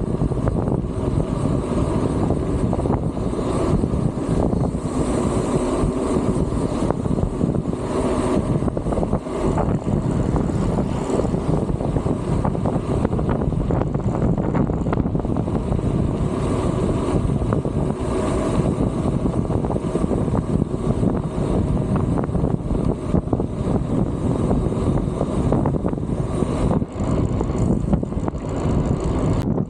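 Strong wind buffeting the microphone in a steady, dense rumble.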